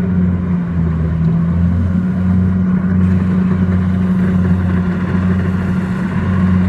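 Kubota DC-70 combine harvester's diesel engine running steadily at working speed, a constant deep drone.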